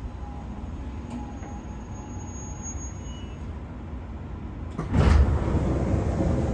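Low steady rumble inside a JR West 201-series electric train car, then about five seconds in a sudden loud rush of noise as the passenger sliding doors open at the station stop.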